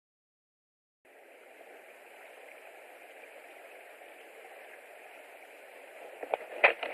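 Steady outdoor hiss picked up by a nest camera's microphone, starting about a second in, with a cluster of sharp crackles and knocks near the end.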